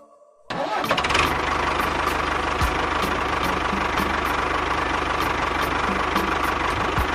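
An engine starts sounding about half a second in and runs steadily at idle with a rapid, knocking chug. Faint music with a regular beat plays underneath.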